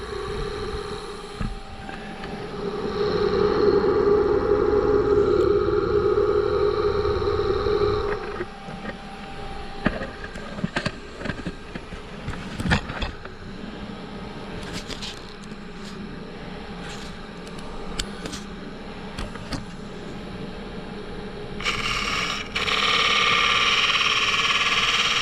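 Wood lathe spinning a thin-walled poplar lampshade while a turning tool cuts the wood for several seconds, then lighter scraping and scattered ticks. A louder steady hiss starts near the end.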